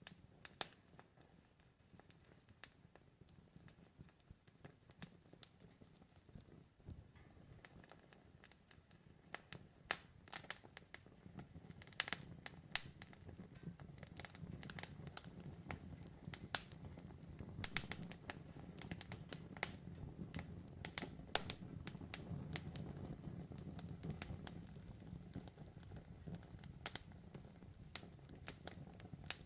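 Campfire crackling: irregular sharp pops and snaps over a low steady rumble of burning wood. The pops come thicker from about ten seconds in.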